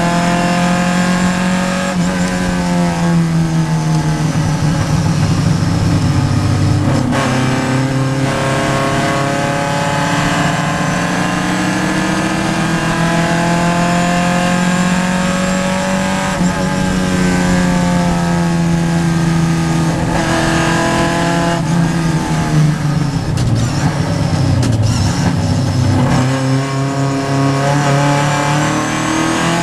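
Vintage Triumph race car's engine heard from inside the car, revving up under acceleration and dropping away on lifts and gear changes several times over.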